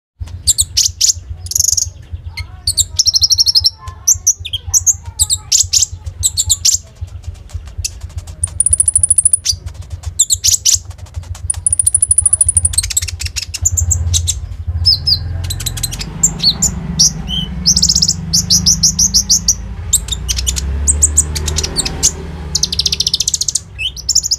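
Konin sunbird singing a fast, varied run of high-pitched chirps, trills and mimicked phrases, over a steady low hum.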